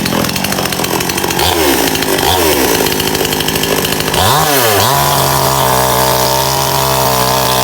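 Stihl chainsaw with a 20-inch bar, a two-stroke, running at high revs while cutting through a soft palm trunk. Its pitch sags and recovers a few times as the chain takes load, then holds steady from about two-thirds of the way in.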